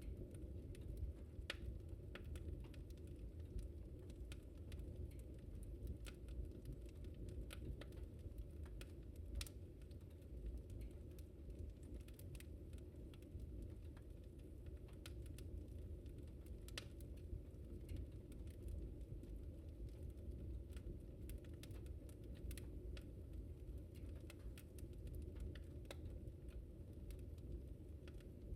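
Wood fire burning in a fireplace: a steady low rumble of flames with many irregular sharp crackles and pops from the burning wood.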